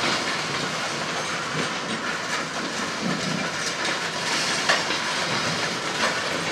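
Loaded freight hopper cars rolling past on steel wheels: a steady rumble of wheels on rail, with a few scattered clicks and knocks from the trucks.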